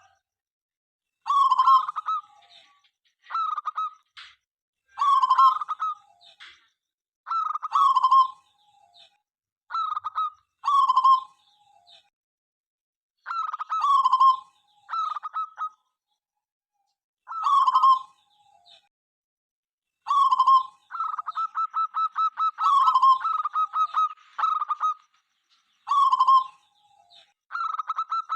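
Zebra dove (perkutut) cooing over and over: short pitched phrases every second or two, and in the last several seconds quick runs of short staccato notes.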